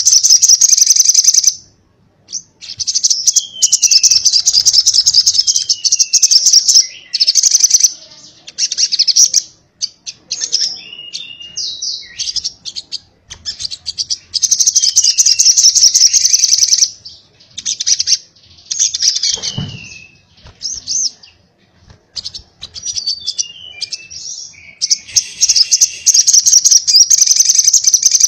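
Little spiderhunter (sogok ontong) singing a rapid-fire, high-pitched chattering song, the 'konslet' style, in repeated bursts of one to three seconds separated by short pauses, with falling whistled notes mixed in. A brief low thump sounds about two-thirds of the way through.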